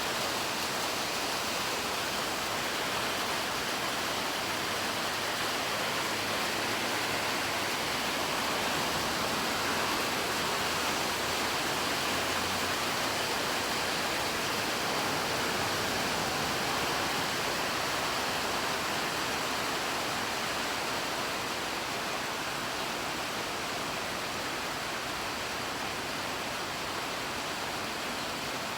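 Rain falling steadily: an even, continuous hiss that eases slightly about two-thirds of the way through.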